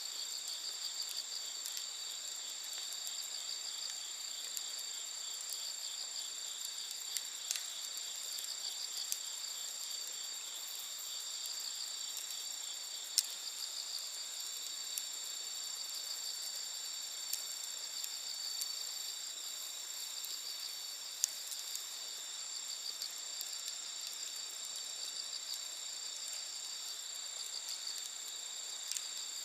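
Night insects chirring steadily in several high pitches, one of them in a fast pulsing trill, over the scattered small pops and crackles of a wood campfire, with a couple of sharper pops.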